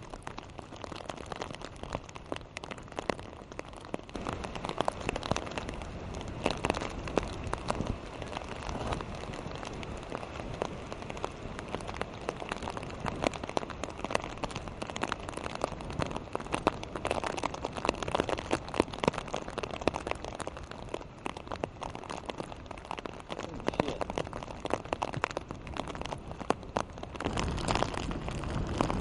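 Heavy rain falling and spattering steadily on hard surfaces, with a denser crackle of drops throughout and a low rumble, such as wind, building near the end.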